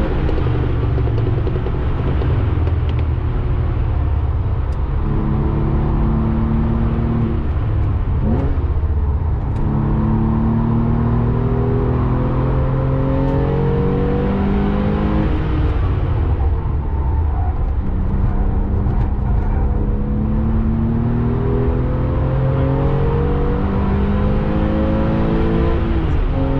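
Porsche 996 Carrera 2's 3.6-litre flat-six heard from inside the cabin, pulling hard through the gears. Its pitch climbs for a few seconds and then falls back at each gear change, several times over, with a steady road-noise rumble underneath.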